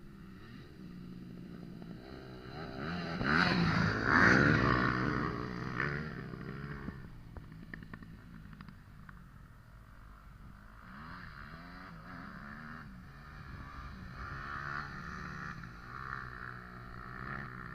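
Motocross motorcycle engine revving up and down as it rides, loudest about three to five seconds in, then running more quietly with repeated rises and falls in pitch.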